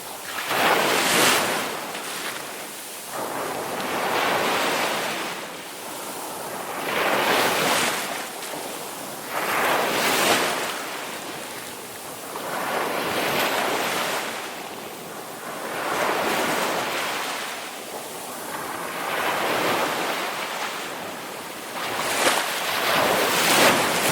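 Ocean waves washing onto a shore, each surge rising and falling away every few seconds in an unbroken rhythm.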